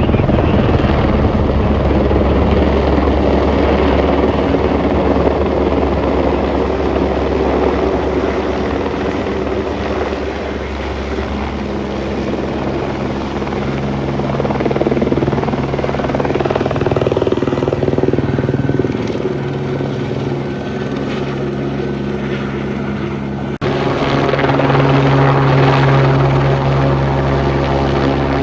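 Helicopter running with steady rotor and engine sound. It cuts abruptly about 24 seconds in to a louder, similar helicopter sound.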